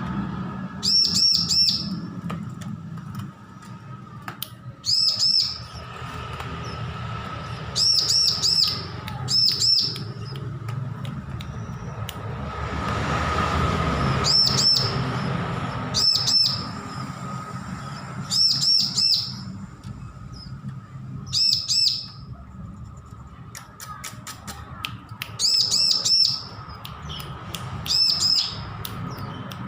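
Bar-winged prinia (ciblek) calling in about a dozen short bursts of rapid, high chirps, spaced a second or few apart. A steady low hum runs underneath.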